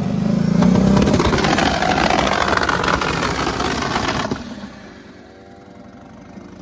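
Turbocharged Dodge Dakota engine running loud at high revs while being pushed to destruction, cutting off sharply about four seconds in. Background music is left after that.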